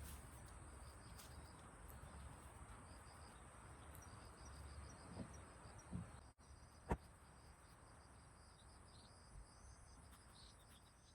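Faint crickets chirping in short repeated pulses over a quiet outdoor background, with a single sharp click about seven seconds in.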